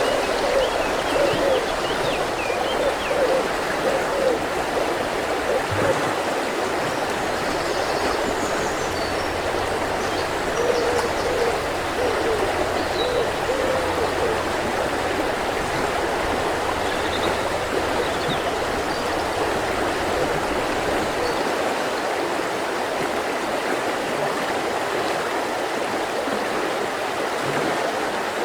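Mountain river flowing steadily, with a few faint, short bird calls now and then.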